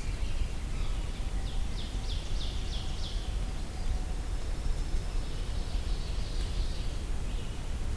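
Brown creeper singing: a short run of about six high, thin, downward-sliding notes, followed by a thin high note, over the low rumble of a gentle breeze.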